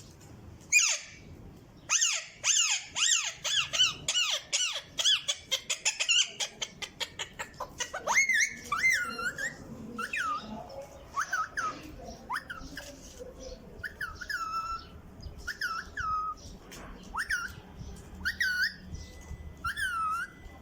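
A grey parrot calling: a fast run of squeaky chattering notes mixed with clicks for the first several seconds, then a series of separate whistled squeaks, each dipping and then rising in pitch, about one a second.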